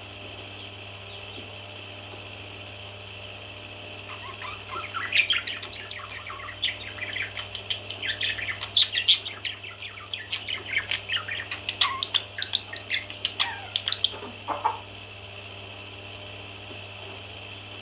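Baby parrots chirping in quick, overlapping calls from about four seconds in until about fourteen seconds, over a steady background hum.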